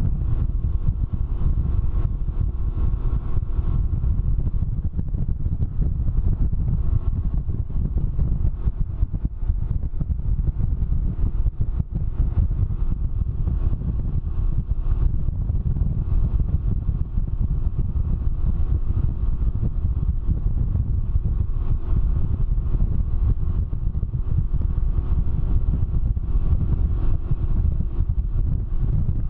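Can-Am Ryker three-wheeler running steadily at road speed, its engine drone mixed with heavy low wind rumble on the microphone.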